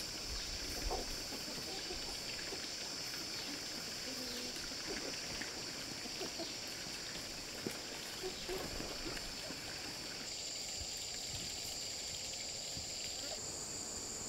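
Insect chorus: a steady, high buzzing that shifts in pitch about ten seconds in and again near the end, with scattered small knocks and clicks.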